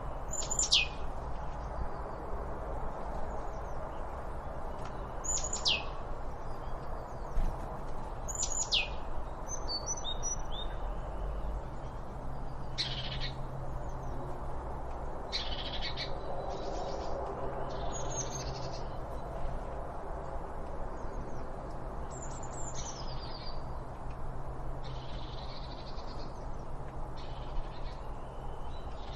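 Birds calling. A loud, high whistle sweeps steeply down three times in the first nine seconds, then shorter calls follow every few seconds over a steady low background hiss.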